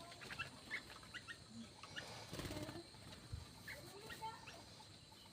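Small aviary birds chirping faintly: many short, separate high chirps scattered through, with a lower call about two and a half seconds in.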